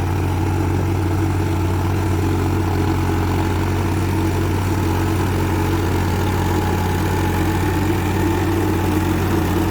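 New Holland 3630 TX Super tractor's three-cylinder diesel engine running steadily under load in second low gear at about 1700 rpm.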